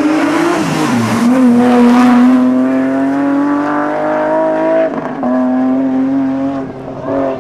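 Rally car engine accelerating hard out of a tight bend, the revs climbing steadily through a gear. About five seconds in the note breaks off, then picks up again and runs at steady revs before dropping away near the end.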